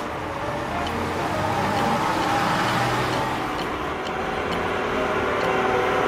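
Engine of a heavy vehicle running steadily.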